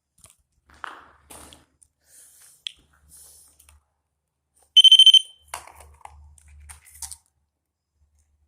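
A REM pod gives a short, loud, high-pitched electronic alarm tone of about half a second, around five seconds in. Scattered clicks and rustles of ghost-hunting equipment being handled and set down come before and after it.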